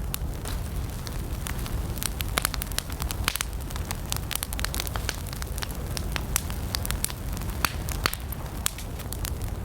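Wood campfire burning: a steady low rumble of flames with many sharp, irregular crackles and pops from the burning wood.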